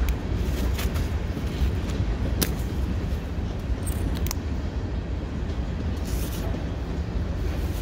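Freight cars rolling slowly past: a steady low rumble of wheels on rail, with a few sharp clicks as the wheels cross rail joints.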